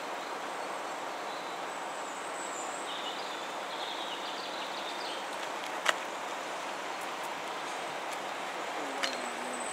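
Steady noise of a train running in towards the station, with a few bird chirps and two sharp clicks about six and nine seconds in.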